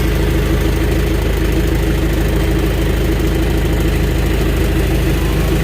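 Diesel engine of a heavy logging machine running steadily at a constant low drone.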